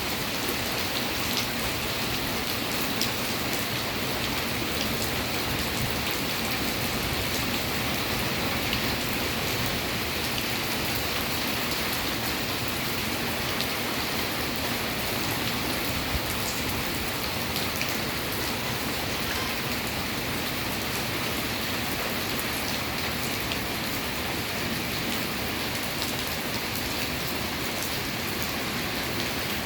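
Steady rain falling, an even hiss with scattered drips and drops striking surfaces.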